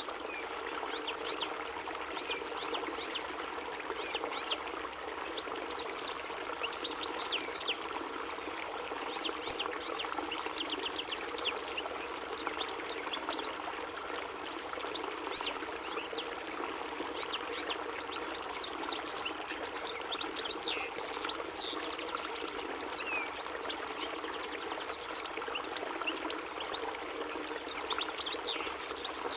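European goldfinch singing: a fast, twittering run of short, sharp chirps and trills, in bursts of song throughout, over a steady rushing background noise.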